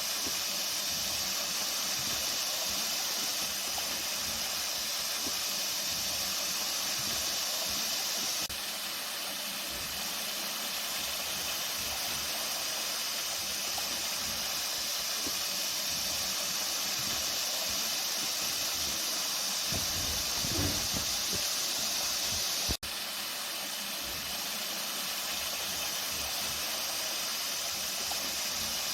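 Flowing water: a steady, even rushing hiss. A brief low rumble comes about two-thirds of the way in, and the sound drops out for an instant shortly after.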